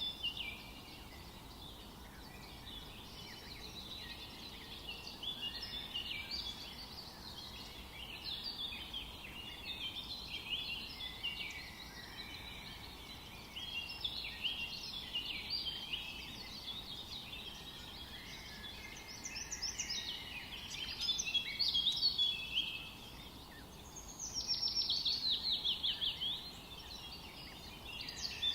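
Several songbirds singing over one another in a continuous forest chorus of chirps and trills, over a faint steady background hiss. One bird's song is louder about two-thirds through, and a rapid run of falling notes follows near the end.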